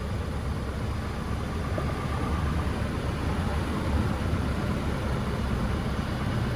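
A 1964½ Ford Mustang's 260 cubic inch small-block V8 idling steadily, running smoothly.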